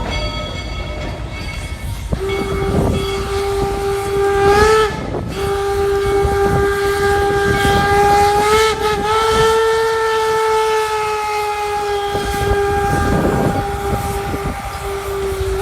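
Steam whistle of Georgetown Loop 2-6-2 No. 12 blowing: a short blast about two seconds in, then a long blast of about ten seconds that wavers slightly in pitch.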